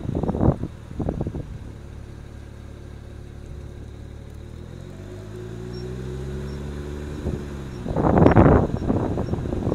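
A car's engine note rising and then holding for a few seconds, then dropping away, between loud gusts of wind noise on the microphone at the start and near the end.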